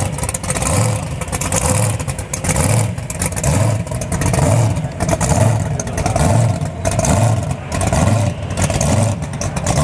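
Mopar drag car engine idling with a steady rhythmic lope, about one and a half pulses a second, typical of a big racing camshaft.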